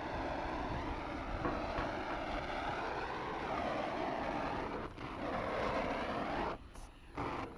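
A motor running with a steady whine whose pitch sags and recovers a few times, as if under changing load. It cuts off abruptly twice near the end.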